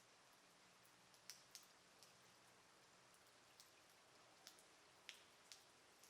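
Faint, light rain: a soft, steady hiss with scattered sharp drips ticking at irregular intervals, about nine in six seconds.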